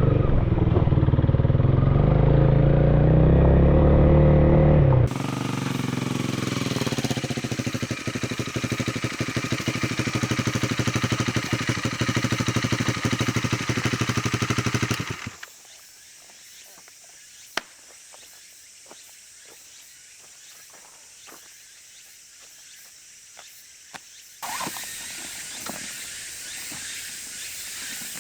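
Honda Rebel 250 motorcycle's single-cylinder engine: loud while riding for the first few seconds, then idling with a steady pulse. It cuts off abruptly about halfway, leaving quiet with a few small clicks, and a steady hiss comes in near the end.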